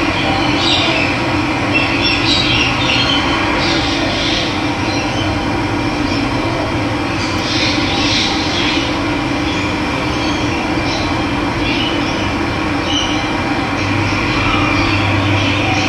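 Steady rush of running water, with birds chirping now and then above it.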